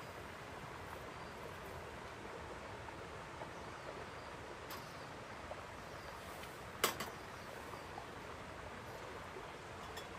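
Steady outdoor background hiss with a few faint ticks and one sharp click about two-thirds of the way through.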